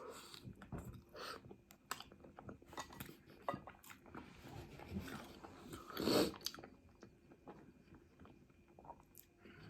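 A person chewing and biting food, with many small crunches and mouth clicks, and one louder noise about six seconds in.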